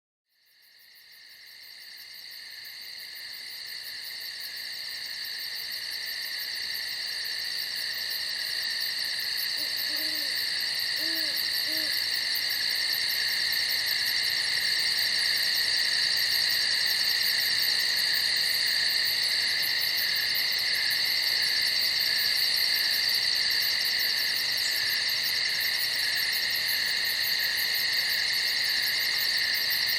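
Night-time chorus of crickets, a steady high trill fading in from silence over the first dozen seconds and then holding steady. About ten seconds in, three faint short low calls sound under it.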